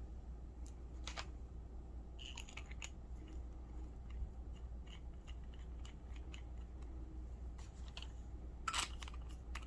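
Faint clicks, taps and small scrapes of small objects being handled on a desk, with a steady low hum underneath; two sharper clicks near the end are the loudest.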